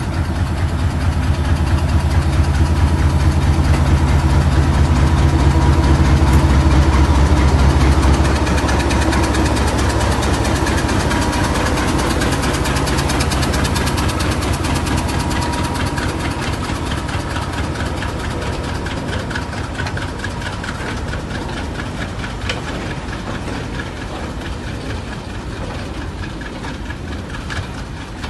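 Diesel locomotives at the head of a coal freight train passing close by, their engines running with a heavy low throb for about the first eight seconds. Then the line of freight wagons rolls past with a rapid, steady clatter of wheels on the track that slowly fades.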